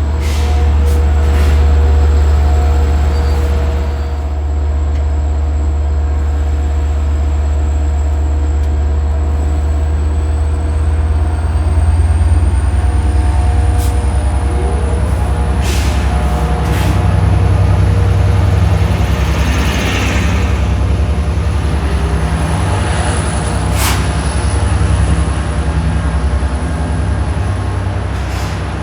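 Commuter train at a station platform: a loud, steady low drone with whining tones over it, and a few short, sharp hisses of air from the brakes around the middle and near the end.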